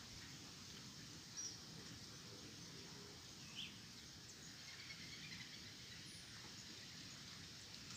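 A few faint, short bird chirps over a steady low hiss, one about a second and a half in and another near the middle.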